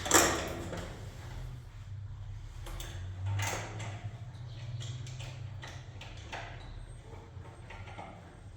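A sharp click just after the start, then scattered light knocks and clicks over a low steady hum.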